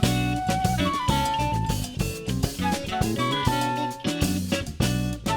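Live band playing an instrumental passage between sung lines, with a drum kit keeping the beat under a melodic line of held notes.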